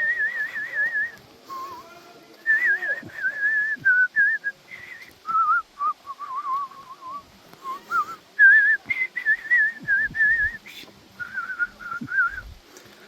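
A person whistling a tune, a single wavering note with a vibrato, in short phrases that step between higher and lower pitches with brief pauses.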